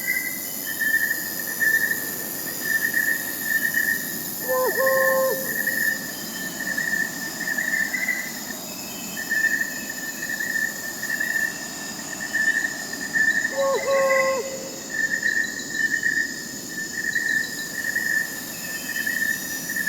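Night forest soundscape: crickets chirping in a continuous pulsing trill over a steady high insect hum, with a short owl hoot twice, about nine seconds apart.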